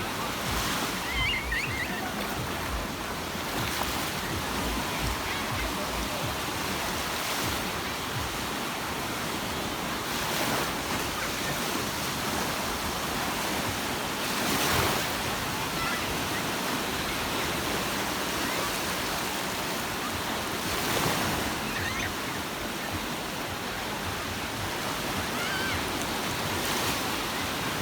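Sea surf washing on a beach: a steady hiss of water with a louder breaking wave every few seconds, the strongest about halfway through.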